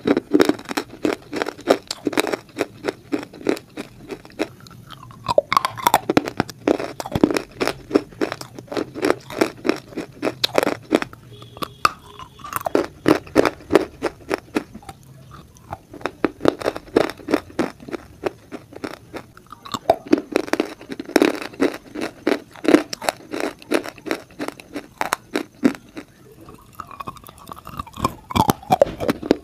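A person biting and chewing a hard grey lump of shale stone, close-miked with a clip-on microphone. Rapid dense crunches come in runs with a few short pauses between them.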